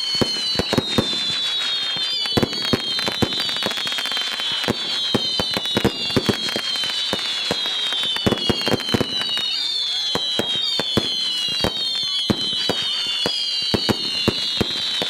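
Fireworks going off in quick succession: many overlapping shrill whistles, each sliding slightly down in pitch over a second or so, over a constant run of sharp bangs and crackles.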